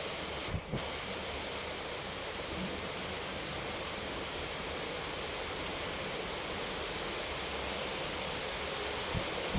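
Steady rainfall, an even hiss, with a brief dip in its higher part about half a second in; no thunder.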